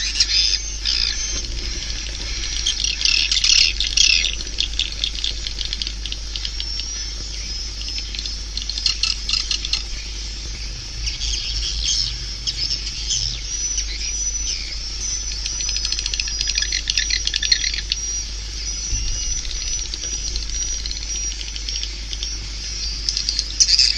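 Swiftlet calls from a swiftlet-house lure recording: dense, rapid twittering and clicking chirps that swell and fade in waves, over a thin steady high tone and a low hum.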